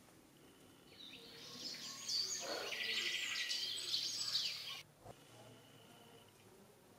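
Birds chirping and trilling in a dense chorus, building up about a second in and cutting off abruptly after about four seconds.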